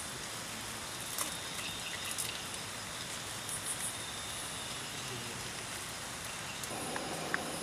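Steady hiss of rain mixed with the hiss of a gas camping stove burning under a frying pan, crickets trilling high above it. A few light clicks as vegetables are dropped into the pan, and the hiss grows a little denser and louder near the end.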